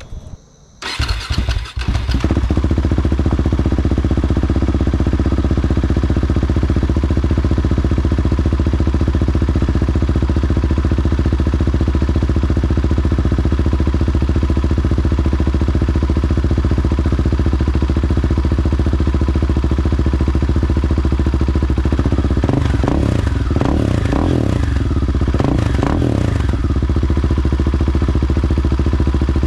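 Husqvarna 701 Supermoto's single-cylinder engine through a Tekmo stainless header and Arrow carbon slip-on exhaust: it starts about a second in, settles into a steady idle, then gets several short throttle blips a few seconds before the end before idling again.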